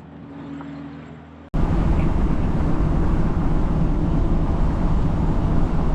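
Semi truck's engine idling with a steady low hum. About a second and a half in, it cuts abruptly to the loud, steady road and wind noise of the truck driving at highway speed.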